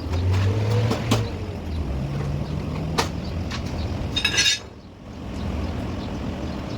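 Metalwork in a car body shop: sharp metal knocks over a low machine hum, and a ringing metal clink about four seconds in.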